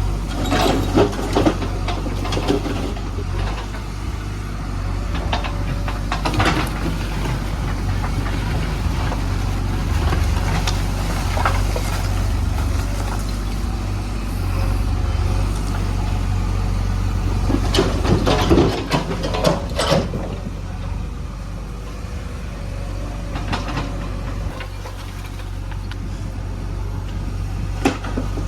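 Diesel engine of a JCB 3DX backhoe loader running steadily under work, with scattered clanks and rattles, loudest about a second in and again around two-thirds of the way through.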